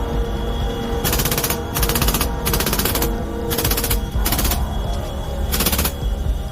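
Short bursts of rapid automatic gunfire, about eight of them a few tenths of a second each, over background music.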